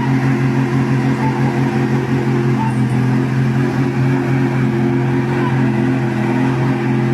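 Truck engine running hard at a steady high pitch, as when straining to pull out of deep mud.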